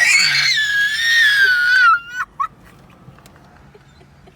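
A woman's long, high-pitched scream lasting about two seconds, its pitch sliding down as it goes, followed by two short squeals: a startled shriek at the birds.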